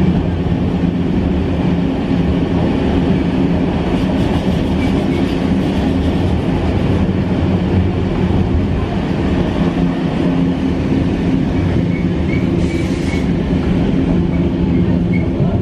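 Heritage steam-hauled passenger trains running at speed on parallel tracks: a steady, loud rumble of carriage wheels on the rails.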